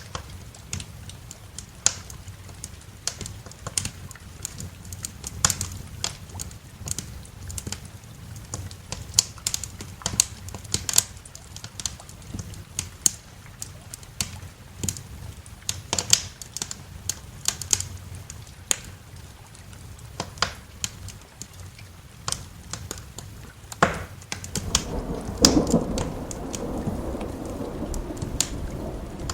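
Wood fire crackling with irregular sharp pops, over a steady hiss of rain. About 25 seconds in, a low rolling rumble of thunder swells in and goes on.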